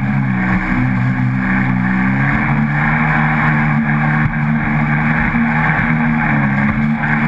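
Jet ski engine running steadily, its pitch shifting a little up and down as the throttle changes.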